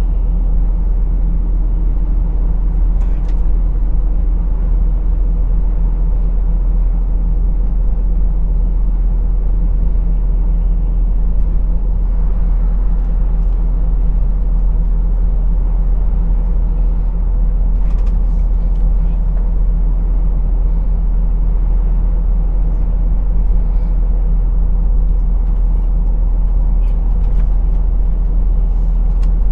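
Truck's diesel engine and road rumble heard from inside the cab, a steady low drone with a few faint clicks.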